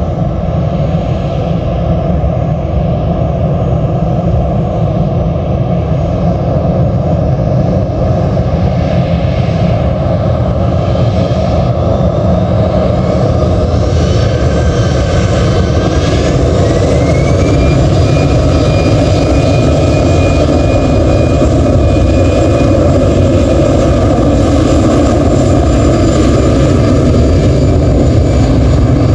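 Jet airliner's engines at takeoff thrust: a loud, steady rumble that slowly grows louder. About halfway through, a whine rises in pitch and then holds steady as the engines spool up.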